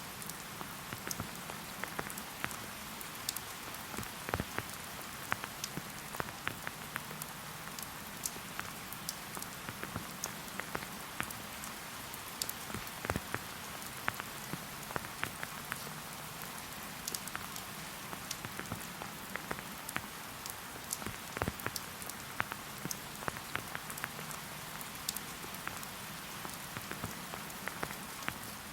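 Steady rain falling, with a constant hiss and many close, individual drips and drop hits scattered irregularly throughout.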